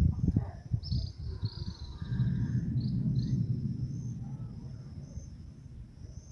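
Crickets trilling steadily, with a few short high chirps about a second in. Under them a low rumbling swells about two seconds in and slowly fades away.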